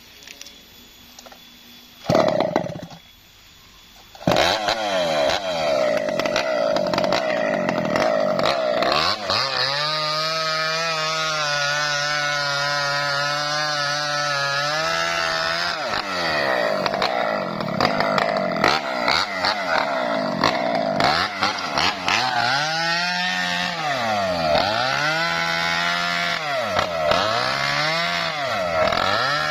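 Small chainsaw engine catching after a brief burst about two seconds in, then running from about four seconds in. It revs up and bogs down again and again as it cuts lengthwise into a coconut-palm trunk.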